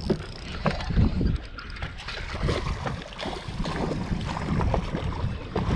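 Wind buffeting the microphone with a low, uneven rumble, mixed with scattered knocks and handling noise.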